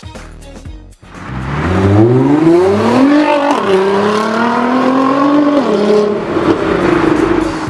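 Nissan GT-R R35's twin-turbo V6 through an aftermarket front pipe, Y-pipe and HKS exhaust, accelerating hard: the revs climb from about a second in, drop at a gearshift about three and a half seconds in, climb again, and drop at another shift near six seconds in before settling.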